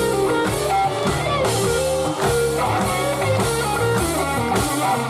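Live band playing a bluesy groove, with electric guitar and drum kit.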